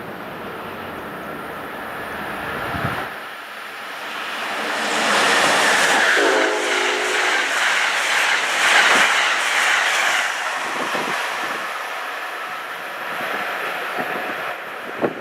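Passenger train passing at speed, swelling to its loudest about five seconds in and fading away over the last few seconds. It sounds a short horn blast about six seconds in, and wheels click over the rail joints as it goes by.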